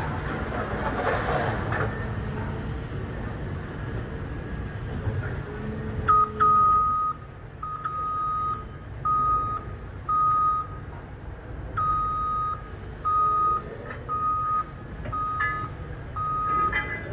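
Heavy scrap-yard machinery rumbling steadily, with some metal clatter at the start. From about six seconds in, a single-pitched warning beeper sounds about once a second, the kind of travel or reversing alarm fitted to yard machines.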